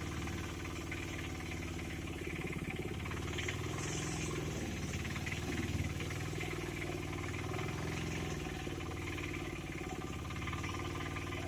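A small engine running steadily at an even pace, with no change in speed.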